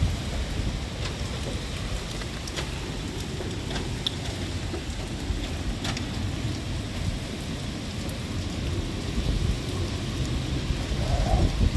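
Steady rain, with a low rumble underneath and a few sharp taps; the rumble swells near the end.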